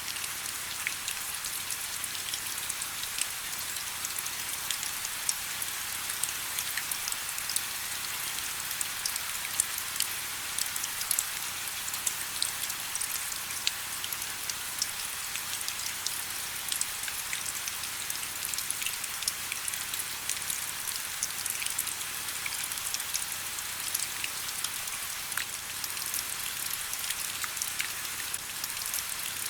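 Steady rain: an even hiss with many individual drops ticking sharply.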